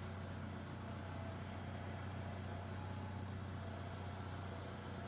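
Car engine idling with a faint, steady low hum.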